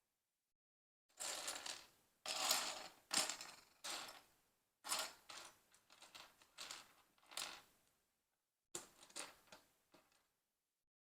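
Small plastic LEGO pieces being handled, clicking and clattering in three bursts of rattling.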